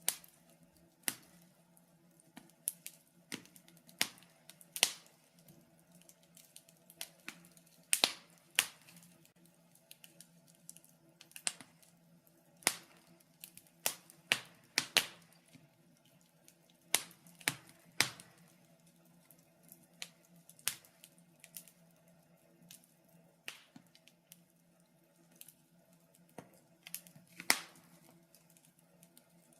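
Wood fire crackling in a fireplace: irregular sharp pops and snaps, a few loud ones among many faint ticks, over a faint steady low hum.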